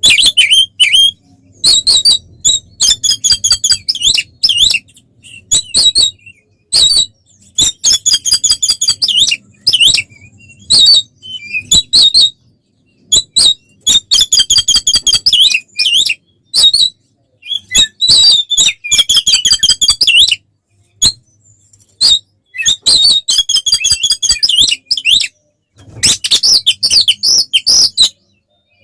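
Oriental magpie-robin (kacer) singing loudly in its fighting mode, in bursts of a second or two of fast, rattling, repeated high notes with short pauses between phrases.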